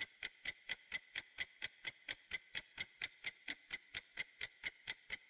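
Ticking clock sound effect used as a quiz countdown timer: evenly spaced sharp ticks, about four a second.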